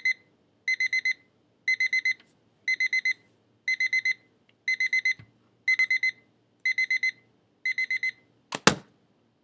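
Electronic alarm clock beeping in bursts of four quick high beeps about once a second. Near the end a loud knock cuts it off, as when the alarm is switched off.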